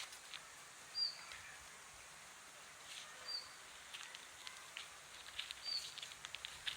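A bird giving a short, high chirp over and over, about every two and a half seconds, with scattered light ticks and taps.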